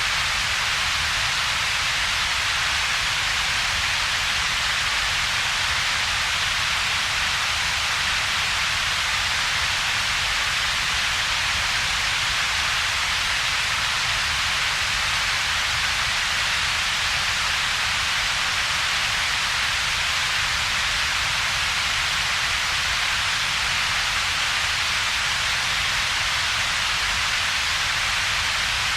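Computer-generated double-peaked noise, unchanging: a broad hiss centred around 2 to 4 kHz together with a weaker low rumble below about 200 Hz, with a gap in between.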